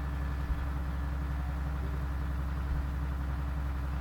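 Steady low hum with faint hiss in a pause of the recording, with two small clicks, one about half a second in and one near three seconds.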